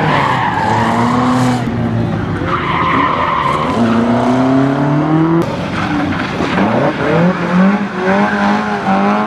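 A classic car's engine revving hard through a tight gymkhana course. Its pitch climbs, drops suddenly about halfway through, then climbs again and holds, and there are spells of tyre squeal.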